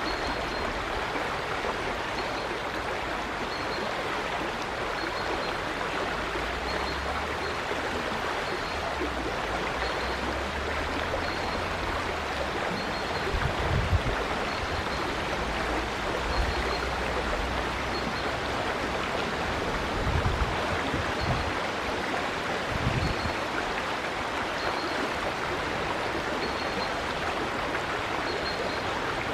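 River water rushing steadily over stones, with a faint high bird chirp repeating every second or two. A few low rumbles, like wind on the microphone, come through about halfway.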